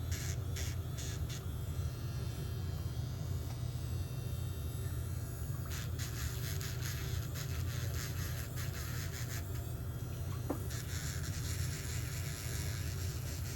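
Electric nail drill buzzing as it grinds down a thick, fungus-affected toenail, with stretches of quick, even scratchy strokes where the bit works the nail surface.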